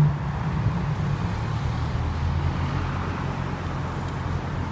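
McLaren Senna's twin-turbo V8 running at low revs as the car pulls slowly toward the camera, a steady low rumble. A short thump comes right at the start.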